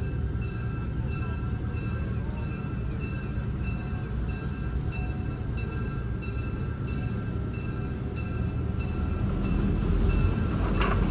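Southern Railway FP7 diesel locomotive, its EMD V16 engine rumbling steadily under a bell ringing about twice a second. The engine grows louder in the last couple of seconds.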